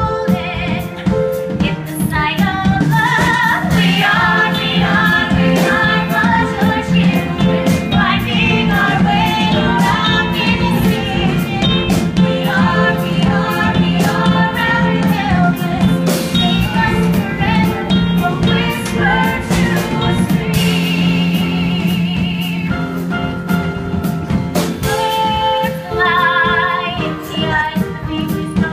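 A woman singing a musical-theatre song live over instrumental accompaniment. Near the 21-second mark she holds a long, wavering high note for about three seconds before the melody resumes.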